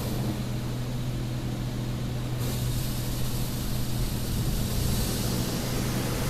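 LaserWash 4000 touchless car wash during its high-pressure rinse, heard from inside the car: a steady hiss of water spray over a constant low hum, the hiss turning brighter about two and a half seconds in.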